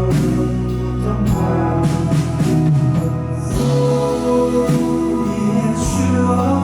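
Live rock band music in an instrumental passage: sustained bass notes and chords moving every second or so, with cymbal crashes near the start and again near the end.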